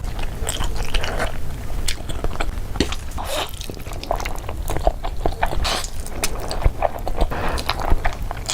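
Close-miked eating: a person biting and chewing food, with a dense run of small sharp clicks and smacking noises.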